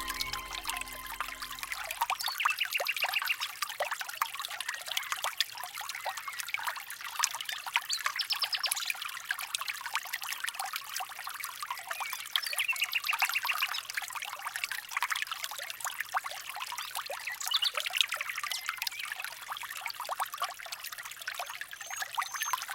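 Many small birds chirping and twittering together in a dense, continuous chorus of short high calls. A music track ends in the first two seconds.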